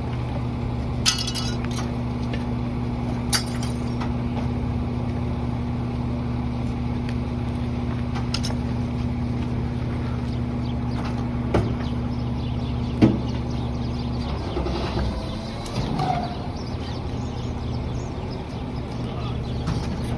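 Garbage truck engine idling with a steady hum, with occasional clinks and knocks of debris being handled. The engine hum stops about two-thirds of the way through, leaving irregular clattering.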